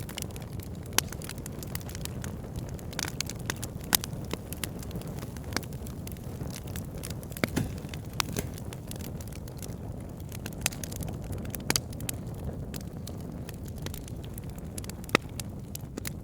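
Wood fire burning: a steady low rush of flames with irregular sharp crackles and pops from the burning logs, a few louder snaps among many small ones.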